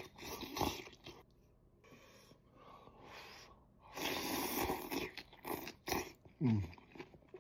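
Close-up eating sounds of someone chewing a mouthful of instant ramen noodles, with a louder noisy stretch of mouth sounds in the middle. There is a short falling "mm" near the end.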